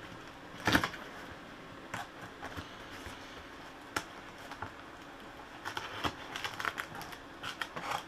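Cardboard shipping box being handled and opened by hand: scattered scrapes, taps and crinkles, with one louder knock about a second in and a quicker run of small clicks near the end.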